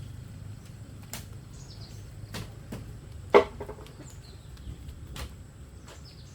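Scattered short knocks and taps, one much louder a little past halfway, over a low steady rumble, with faint bird chirps in between.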